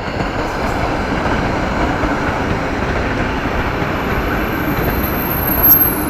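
Electric commuter train moving past close by: a loud, steady rumble of wheels and carriages. A thin, high whine comes in about four seconds in.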